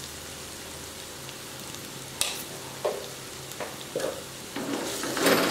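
Sliced onions and green chillies frying in oil in a clay pot, a steady sizzle, with coriander powder just added to be roasted off. A few sharp knocks are heard from about two seconds in, and near the end a wooden spatula starts to scrape and clatter through the pot.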